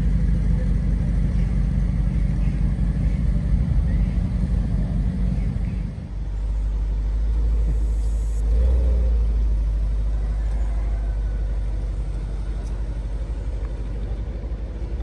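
ABT-tuned Audi RS6-R C8's 4.0-litre twin-turbo V8 idling with an uneven rumble. It changes note about six seconds in, swells briefly about eight seconds in as the car pulls away, then fades steadily as it drives off.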